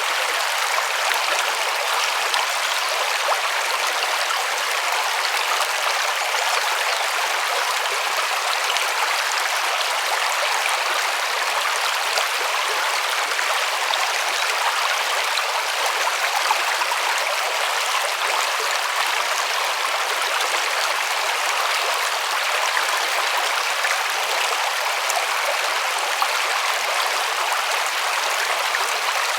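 River water flowing and rushing steadily over stones, an even splashing hiss with fine trickling detail and no change in level.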